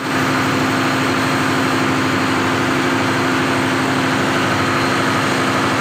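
An engine running at a steady speed: a constant hum that holds one pitch, with no revving.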